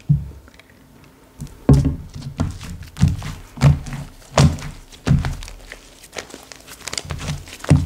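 Slime being pressed and squished by hand, giving a series of dull, low thuds roughly every half to one second after a quiet first second and a half.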